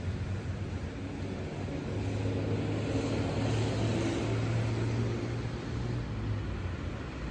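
A vehicle's steady low drone with a hiss that swells and fades about halfway through.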